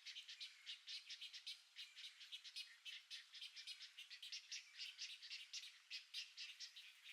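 Faint, rapid bird chirping: short high notes running at several a second throughout.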